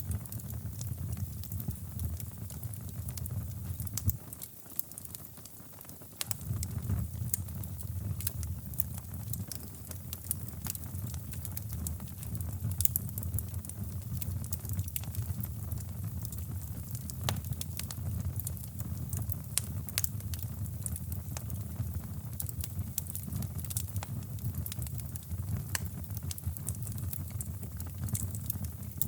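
Fireplace fire crackling with many small sharp pops, over a steady low rushing brown noise that drops away for a moment about five seconds in.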